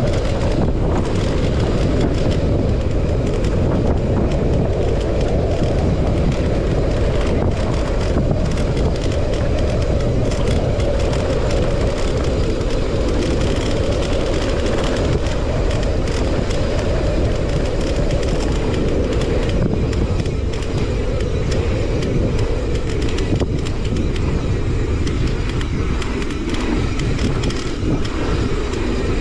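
Steady wind buffeting the camera microphone in a blizzard: a dense low rumble with a fainter rushing hiss above it.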